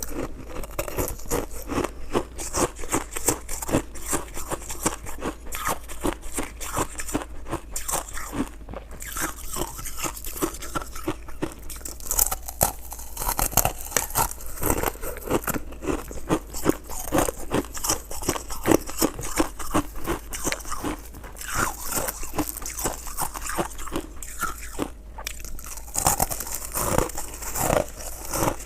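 A person biting and chewing crunchy crushed ice close to the microphone, with many quick, irregular crunches one after another.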